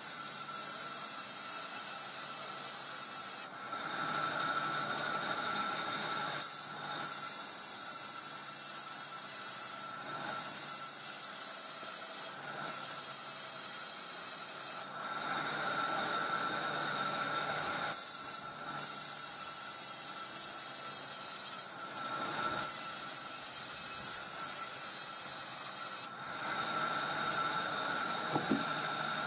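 Sawmill saw cutting coconut palm timber: a steady hissing rasp of the blade through the wood with a thin whine. The sound changes abruptly every few seconds.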